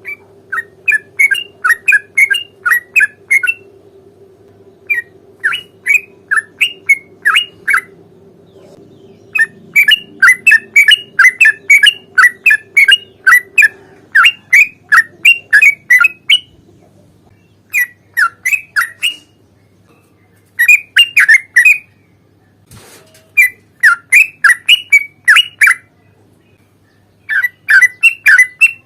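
Yellow-vented bulbul singing: loud, rapid groups of bubbly chirping notes, each group a second or two long, repeated after short pauses.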